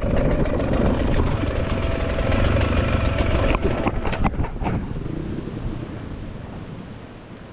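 Enduro dirt-bike engine running with a rapid, even beat for about three and a half seconds. A few sharp knocks follow, then the engine sound falls away, leaving a steady hiss that slowly gets quieter.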